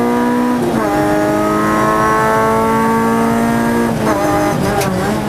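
Opel Corsa rally car's engine at high revs, heard from inside the cabin: an upshift about a second in, then the revs held under full throttle, until about four seconds in the note breaks up and wavers as the driver lifts off to slow for a tyre chicane.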